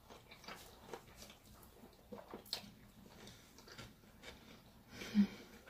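Two people chewing sushi rolls with closed mouths: faint, scattered wet mouth clicks and smacks, with a brief louder hum about five seconds in.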